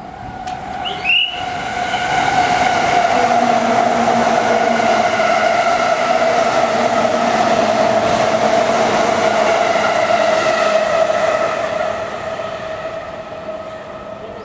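Electric commuter trains at a station platform. There is a short high squeak about a second in, then a loud, steady whine of motors and wheels with the rumble of the cars, which lasts about ten seconds and fades near the end.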